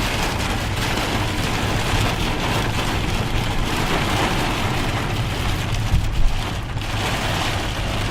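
Heavy rain pouring steadily onto a moving car, with a low engine and road rumble underneath. Two brief knocks come about six seconds in.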